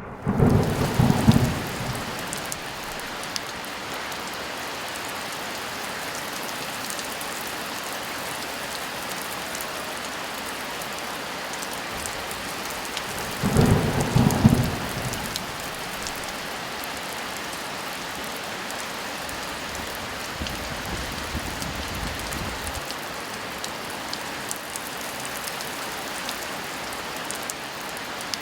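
Steady heavy rain hissing throughout, with thunder rumbling twice: once right at the start and again about halfway through.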